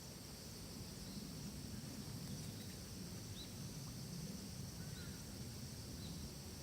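Forest ambience: a few short, high bird chirps over a steady high hiss and a low rumble.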